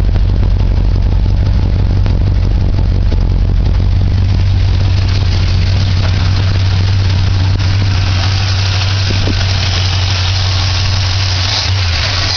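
Chevrolet ZZ4 350 small-block V8 crate engine with a Holley 750 double-pumper carburetor idling steadily, its higher-pitched mechanical noise growing louder from about halfway through.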